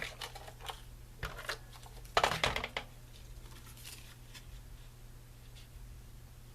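Paper and photo prints handled on a table: a few light taps and rustles, with a louder rustling scrape a little after two seconds in, over a steady low electrical hum.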